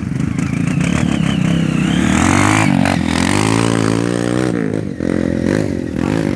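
Motocross bike engine revving, its pitch climbing and falling several times, with a brief drop in throttle about five seconds in.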